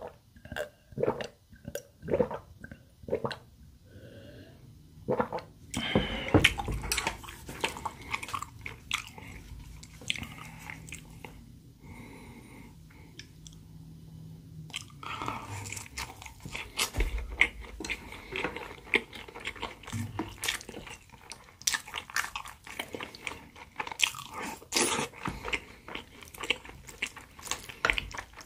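Gulping swallows of a drink, about two a second, for the first few seconds. Then close-miked biting and chewing of crispy pan-fried potato pancake (gamja-jeon), with many small crunches and crackles.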